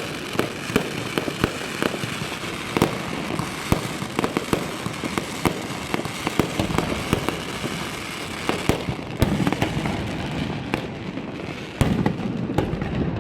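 Fireworks display: a dense, continuous run of sharp bangs and crackles, with a heavier boom near the end.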